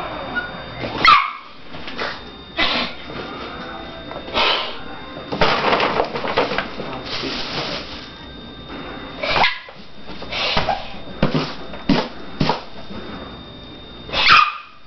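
A dog growling and grumbling in irregular outbursts, with a short sharp cry that falls in pitch about a second in and again near the end. He is protesting at a hissing sound he hates.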